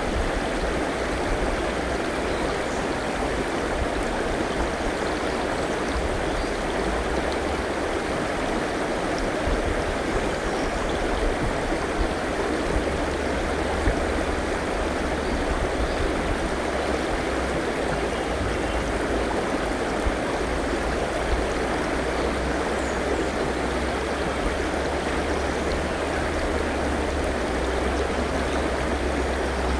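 River flowing steadily: a constant rushing of water with a low rumble beneath.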